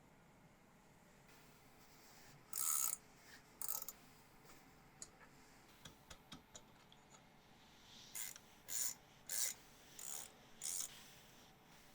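Short rasping strokes of a hand abrasive tool being worked back and forth: two strokes a few seconds in, then a run of five, a little over half a second apart, near the end.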